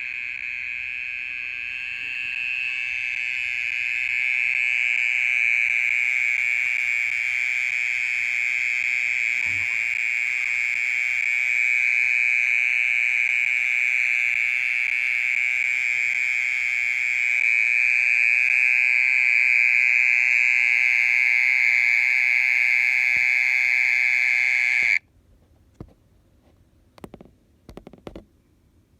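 Mole cricket singing a continuous, unbroken trill that cuts off suddenly about 25 seconds in, with a few short stutters near the end.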